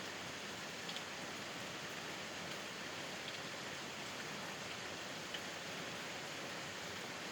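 Steady rain falling, an even hiss, with a few single drops standing out as brief taps.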